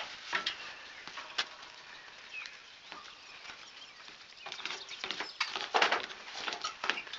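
Footsteps crunching on the ground outdoors, scattered at first and then quicker and louder in the second half.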